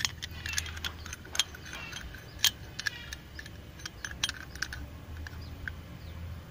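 Metal hand tools clinking and clattering as they are picked up and handled, with a sharp clink about two and a half seconds in. Birds chirp faintly in the background.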